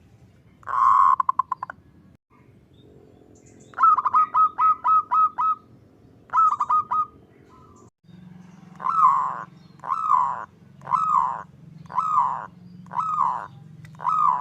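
Zebra dove (perkutut) calling. About a second in comes a quick rolling series of pulses, then bursts of rapid short coos. From about the middle on, six longer arching coo notes come about a second apart.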